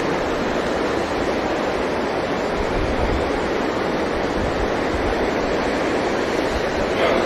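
Steady, even rushing noise with no breaks, in the manner of fast river water or wind.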